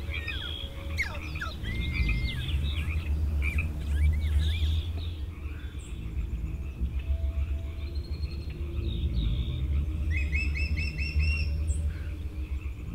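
Birdsong from several birds: many short chirps and whistled calls in the first few seconds, thinning out, then a quick run of five repeated notes near the end, all over a steady low rumble.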